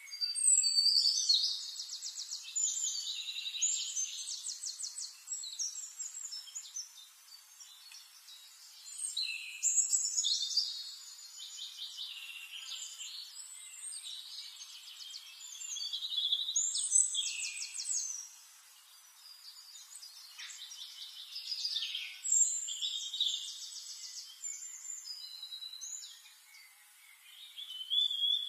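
Songbirds singing: phrases of fast, high trills and chirps that swell and fade every few seconds.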